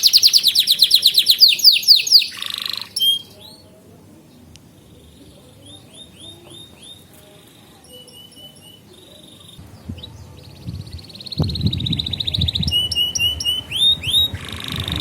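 Domestic canary singing: a loud, fast rolling trill that stops about two seconds in, a quieter stretch of short, separate chirps, then trilling and chirping again near the end. A low rumbling noise runs under the last few seconds.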